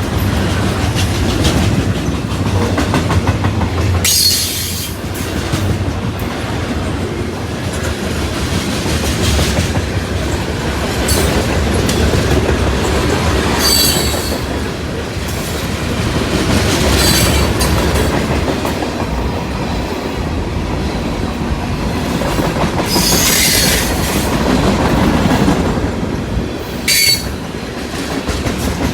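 Freight train cars rolling past on a curve: a steady rumble and clatter of wheels on the rails, with short high-pitched wheel squeals several times.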